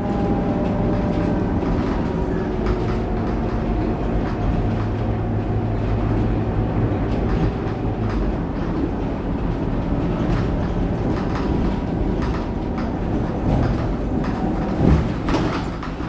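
Scania K230UB bus under way, heard from inside: its diesel engine running steadily along with road and cabin rattle noise. A single brief knock near the end.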